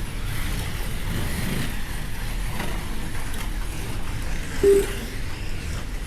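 Slot cars lapping a track: the steady running noise of their small electric motors and wheels in the slot. Near the end comes one short electronic beep, typical of a lap-timing system.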